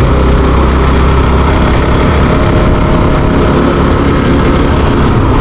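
Bajaj Pulsar NS200 single-cylinder motorcycle engine running at steady speed while riding, under a loud, heavy low rumble.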